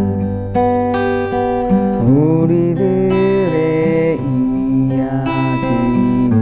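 Acoustic guitar fingerpicked in an arpeggio pattern, with a voice singing the melody over it from about two seconds in.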